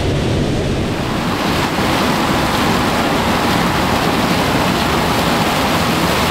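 Heavy harvest machinery running: a low engine rumble under a steady, dense rushing noise that grows louder about a second in.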